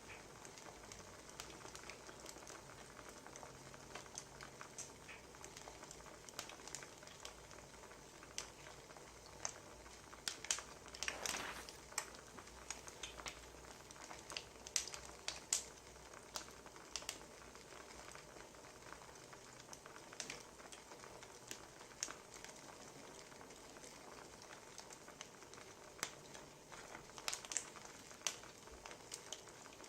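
Wood fire crackling: irregular sharp pops and snaps over a soft steady hiss, with a louder flurry about eleven seconds in.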